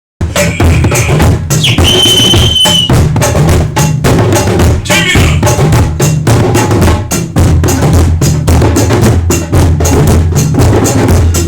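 Group drumming on hand drums: a fast, dense beat with deep bass strokes. A high held note sounds over it for about a second, starting about two seconds in.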